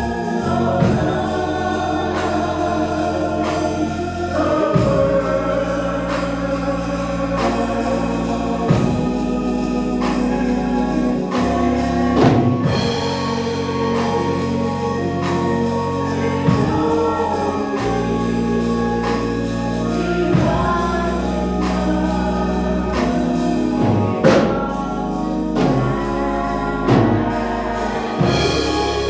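Church choir singing a gospel song of invitation with organ accompaniment and a steady, slow beat.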